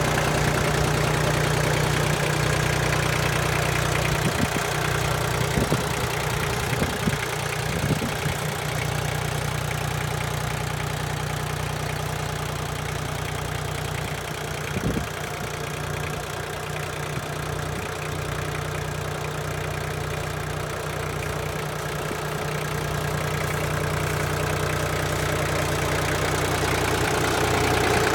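Iseki TL2500F compact tractor's diesel engine idling steadily, with a few brief clicks over it between about four and eight seconds in and again near fifteen seconds.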